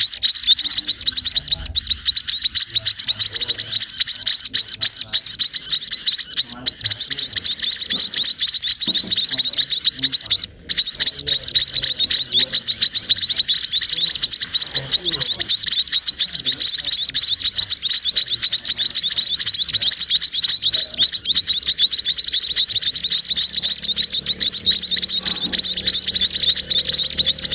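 Sparrow chicks giving a continuous stream of rapid, high-pitched begging chirps, many calls a second, broken only briefly about ten seconds in.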